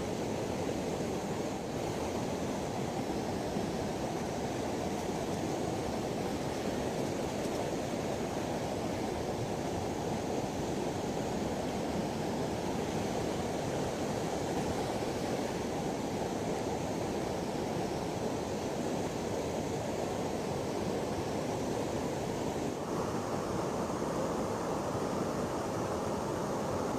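Steady rushing of flowing river water, an unbroken noise with no distinct splashes.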